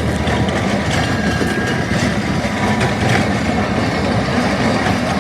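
Mouse Mine ride train running: a steady low rumble with a faint thin whine and scattered clicks and rattles.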